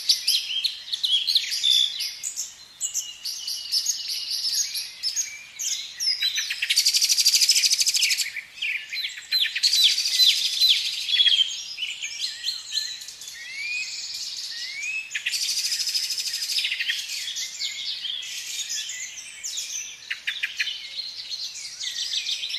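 Several small songbirds chirping and singing together, a busy mix of high calls with repeated rapid trills and short rising whistles.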